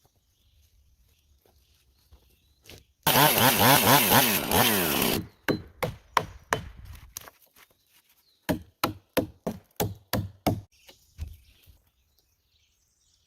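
Log being sawn for about two seconds, then two runs of sharp blows into wood, a few strikes a second, from notching timber.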